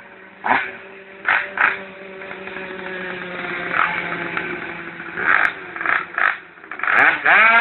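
Mitsubishi Lancer Evolution II's turbocharged four-cylinder engine running through a Roost aftermarket exhaust. It idles with several short, sharp throttle blips, then revs up steeply near the end.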